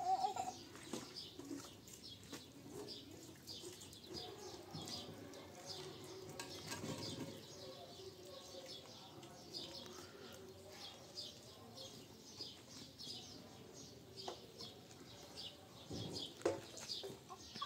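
Small birds chirping over and over, short high chirps several a second, over a faint background with an occasional knock.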